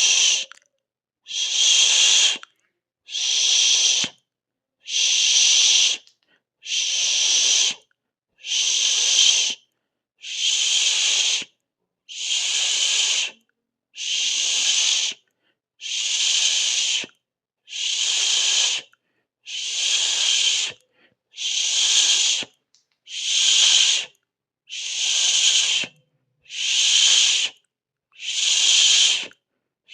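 A long hissing 'shh' sound repeated over and over in an even rhythm, about one hiss every two seconds, each lasting a little over a second with a short silence between.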